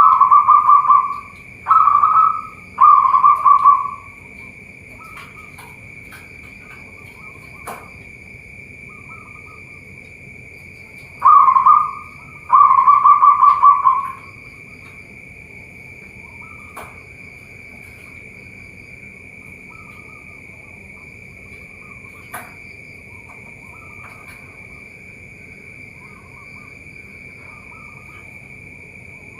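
Zebra doves cooing: a few rolling coo phrases at the start and two more about eleven seconds in, with quiet gaps between. A steady high-pitched drone runs underneath, with a few sharp clicks.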